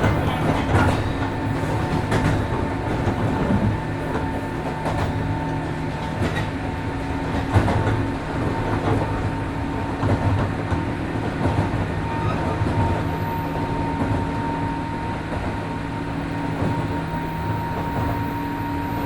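Inside a JR 103 series 1500-subseries electric train running at speed: steady running noise with a low hum and a thin steady whine. Wheels knock over rail joints now and then.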